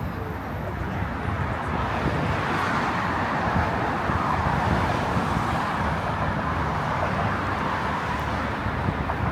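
Road traffic noise: a steady rush of cars going by, growing a little louder around the middle.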